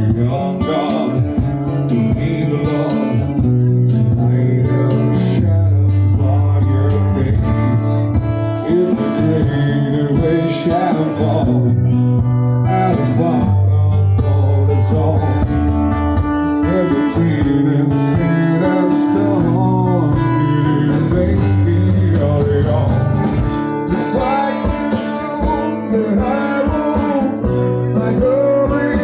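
Music: acoustic guitar played with a steady bass line that changes note every couple of seconds, with a voice singing in places.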